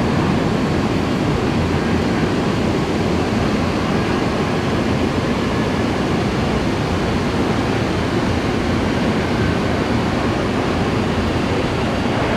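Steady rushing noise of rain and wind, heaviest in the low range, with no distinct engine tone or sudden sounds.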